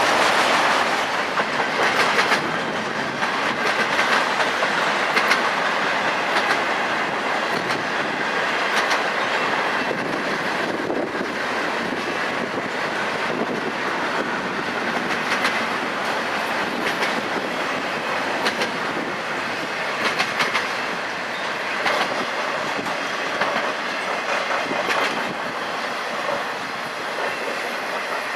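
Freight train cars rolling past, a steady rumble of wheels on rail with irregular clicks as the wheels cross rail joints.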